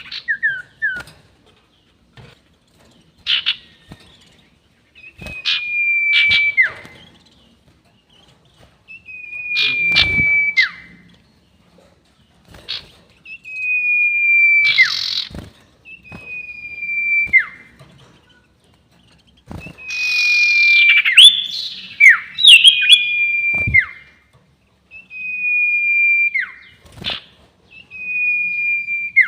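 Sirtu bird singing its long whistle: drawn-out whistles, each held near one pitch, slightly falling and ending in a quick downward flick, repeated every three to four seconds, with short sharp call notes between them.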